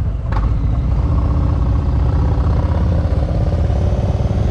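Motorcycle engine running steadily, with a single sharp click about a third of a second in.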